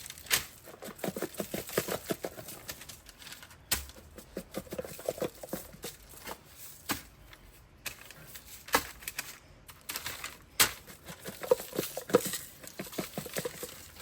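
Irregular clicks, taps and light knocks of kitchen handling, with a few short squelchy sounds, while barbecue sauce goes onto chicken.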